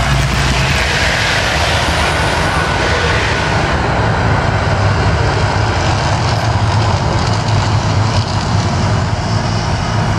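Loud steady roar with a deep rumble from the Mirage volcano attraction's eruption effects and sound system.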